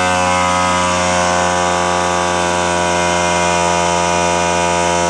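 Small portable air compressor's electric motor and piston pump running steadily, pumping air into its tank.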